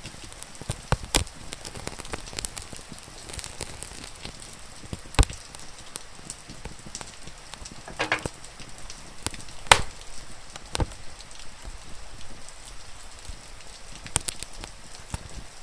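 Wood fire crackling, with sharp pops a few seconds apart, over a steady hiss of rain. About 8 s in there is a brief squeaky whine.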